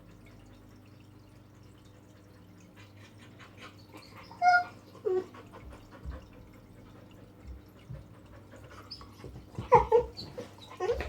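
A dog giving short whines or yelps: two brief calls about halfway through, then a louder cluster near the end, over a faint steady hum.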